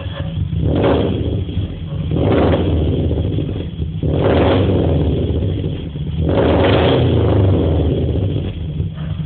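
Exhaust of a 2008 Subaru Impreza 2.0R-S's 2.0-litre flat-four, fitted with Speedlab unequal-length headers and an Orange full exhaust: a steady low idle rumble, blipped four times, each rev swelling and falling back within a second or so.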